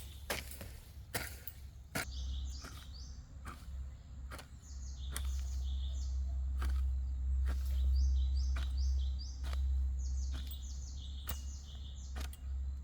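Small birds chirping repeatedly, over sharp knocks that come about once a second, and a low rumble that swells from about two seconds in and drops near the end.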